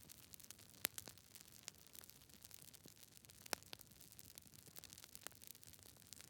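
Wood fire crackling: a soft, steady hiss with scattered pops and snaps, two sharper pops about a second in and halfway through.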